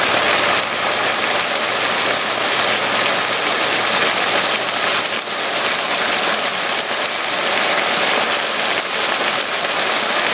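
Chicken and potato cubes sizzling steadily in oil and soy sauce in a pan, a dense, even crackling hiss.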